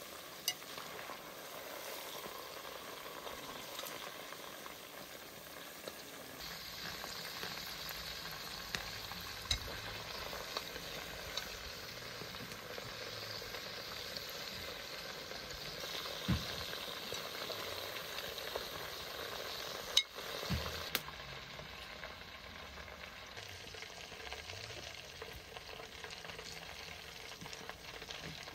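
Food frying over a fire: a steady sizzle with a few sharp pops scattered through it.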